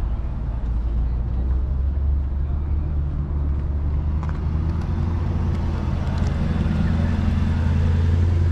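A car engine running at idle with a steady low rumble, and a few light clicks in the second half.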